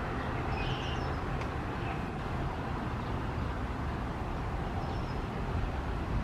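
Diesel commuter train pulling away from the station: a steady low rumble of the locomotive and wheels on the rails.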